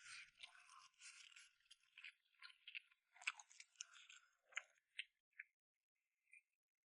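Faint close-up chewing and crunching of food in the mouth: a dense run of small wet crackles that thins out after about five seconds.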